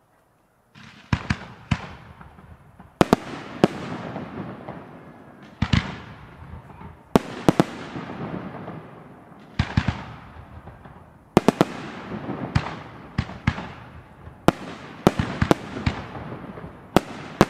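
Fireworks display with aerial shells bursting in a series of sharp bangs, some in quick pairs or clusters, each followed by a rumbling echo. The bangs start about a second in.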